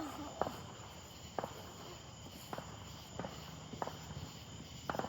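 Crickets chirring steadily in the night air, with about half a dozen faint sharp pops or clicks scattered through it.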